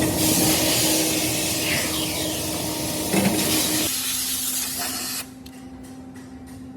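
Workshop machinery running: a loud steady hiss with a humming tone. About five seconds in, the hiss drops off abruptly, leaving a quieter hum.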